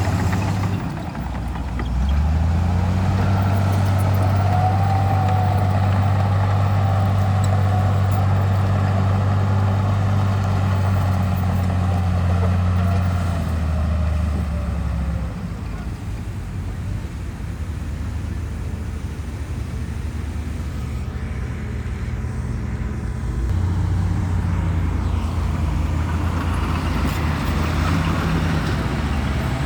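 Bulldozer's diesel engine working under load, a steady low drone that eases off about halfway through and picks up again near the end. A faint wavering whine rides over it in the first half.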